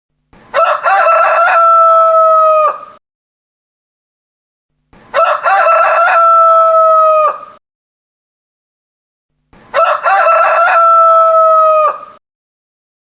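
Rooster crowing three times, about four and a half seconds apart. Each crow opens with a few short broken notes and ends in a long held note that falls slightly and cuts off sharply.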